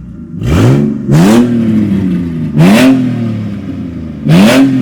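Naturally aspirated Ford Barra inline-six, its exhaust snapped off behind the headers so it runs open straight from the headers, revved up sharply four times. Each rev climbs quickly and falls back slowly, and it is loud.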